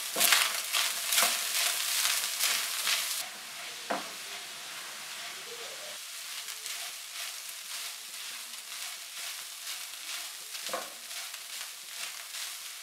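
Ground beef mince with cubed onion and capsicum sizzling in oil in a karahi, stirred and scraped with a silicone spatula. The stirring is dense and loud for about the first three seconds, then the frying settles into a quieter steady sizzle with occasional spatula scrapes and a couple of sharper knocks against the pan.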